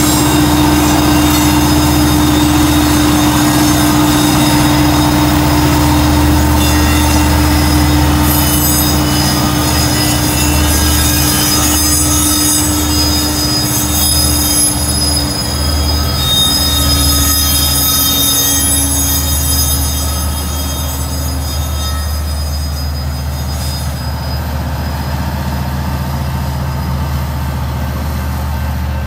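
Loaded coal train rolling past, steel wheels squealing against the rails over a steady low rumble. The rumble eases a little past two-thirds through.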